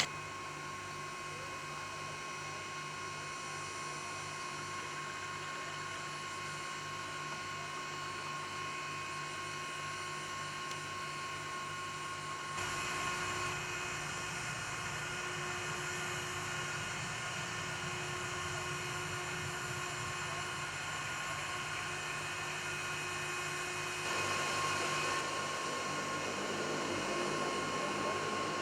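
Steady turbine whine during a Northrop F-5E Tiger II's ground start-up, with several fixed tones over a regular low pulsing. It gets louder in two steps, about 13 seconds and 24 seconds in.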